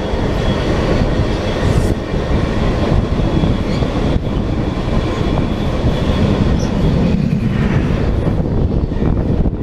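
Two trains passing each other at close range on adjacent tracks, heard from an open vestibule: a loud, steady rumble and clatter of steel wheels on rail with rushing air and a faint high whine. The rumble deepens near the end as the other train's diesel locomotive goes by.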